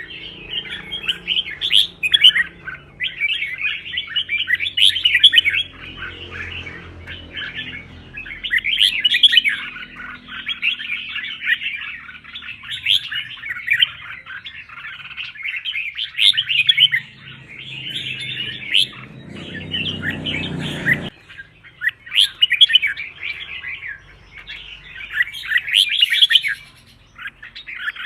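Red-whiskered bulbul singing in quick, continuous bursts of bright chirping phrases with brief pauses between them. A low background rumble stops suddenly a little past two-thirds of the way through.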